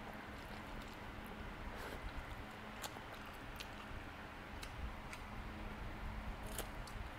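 A person chewing a mouthful of instant fried noodles, close up, with scattered short wet mouth clicks, over a faint steady hum.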